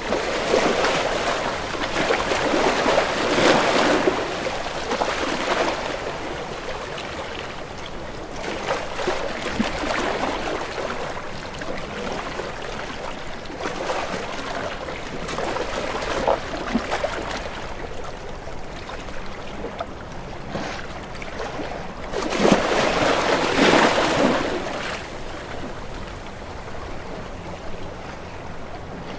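Sea waves washing, swelling and fading in irregular surges, loudest in the first few seconds and again about three-quarters of the way through.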